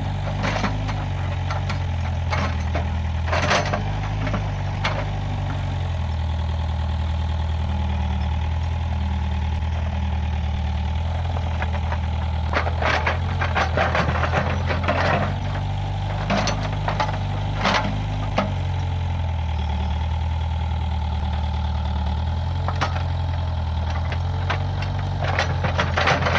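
Case 580G backhoe loader's diesel engine running steadily, its pitch shifting down and up a few times as it works, with scattered sharp cracks and knocks, most around the middle and near the end.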